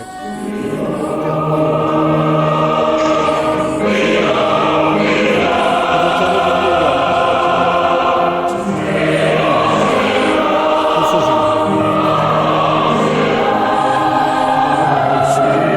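Background choral music: a choir singing long, slowly swelling held chords.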